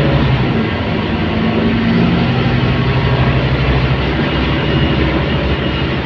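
Scania K280UB city bus under way: its diesel engine and the road noise, steady and loud, with a low engine tone that shifts in pitch about two seconds in.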